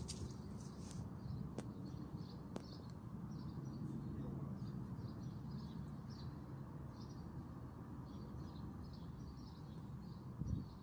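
Small birds chirping faintly on and off over a steady low outdoor rumble, with two sharp clicks about two and three seconds in.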